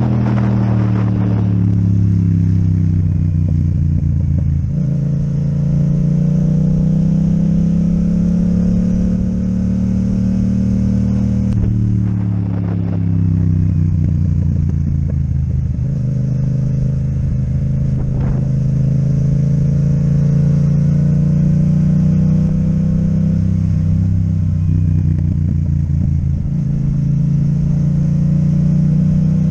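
Yamaha MT-07's parallel-twin engine running through an Akrapovic exhaust while riding, holding steady revs with the pitch dropping and climbing again a few times as the rider eases off and picks up speed.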